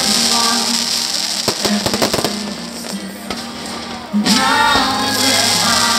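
Fireworks bursting over loud show music with a sung melody, as played for a pyromusical display. A cluster of sharp bangs comes about a second and a half to two seconds in.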